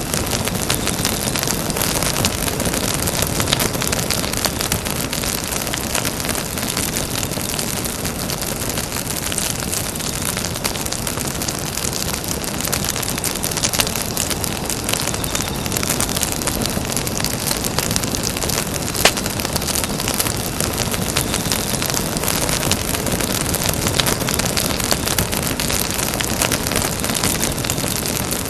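Campfire burning steadily: a dense crackling hiss with many small snaps throughout and a couple of louder pops midway.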